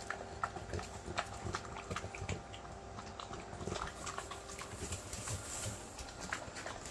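Dogs eating a soft meal of ground beef and vegetables from their bowls: irregular chewing, smacking and small clicks.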